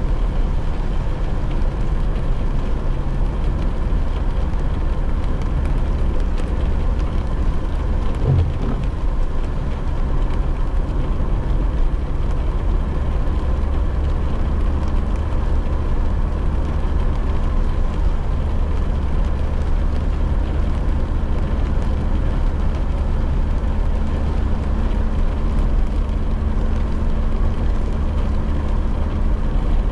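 Car driving in light rain, heard from inside the cabin: a steady low rumble of engine and tyre noise with a faint hiss of rain.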